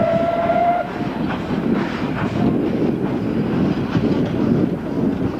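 Passenger train coaches rolling past close by, a steady rumble broken by the clack of wheels over the rail joints. A brief steady high tone sounds at the very start.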